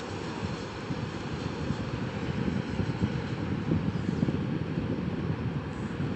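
Tank wagons of a long, heavy freight train rolling past: a steady low rumble of wheels on rail.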